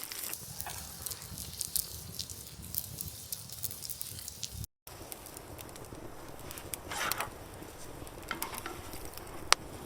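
Wood campfire crackling, with scattered sharp pops and one louder pop near the end. The sound cuts out completely for a moment a little before halfway.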